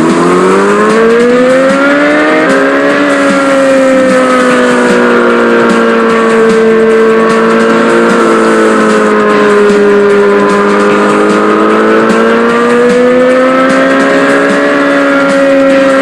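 Small motorbike engine revving up over the first few seconds, then running on at a steady, slowly wavering pitch.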